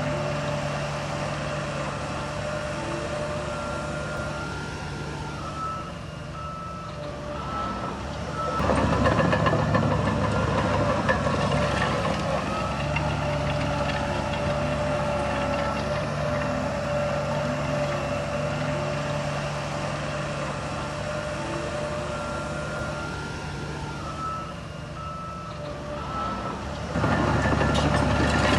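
Heavy diesel earthmoving machinery running, with a reversing alarm beeping. The engine noise rises sharply about eight seconds in and again near the end, as the machines work harder.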